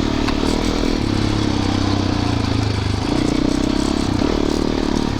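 Dirt bike engine running under way on a trail, its note shifting up and down a few times with the throttle.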